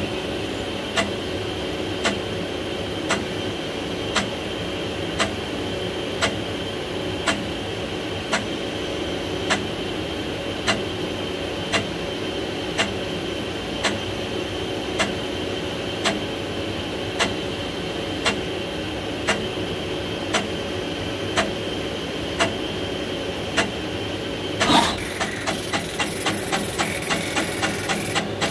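Universal Instruments Genesis GC30 pick-and-place machine running its zeroing (homing) cycle: a steady machine hum with a sharp click about once a second. About 25 s in there is a louder clatter, followed by quicker ticking, several a second. The axes and bearings run quiet, with no grinding.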